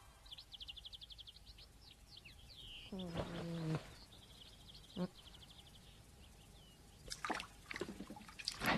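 Small birds chirping in quick, high trills, a faint morning-birdsong effect. About three seconds in comes a short, sleepy vocal sound. Near the end there are a few light clinks and clatters.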